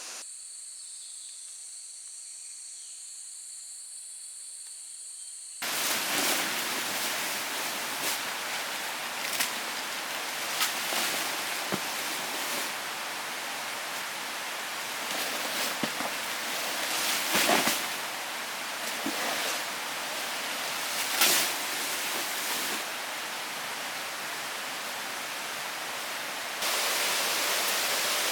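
A faint high steady tone for about five seconds, then a sudden switch to a loud steady rushing noise with scattered sharp knocks, which gets louder again near the end.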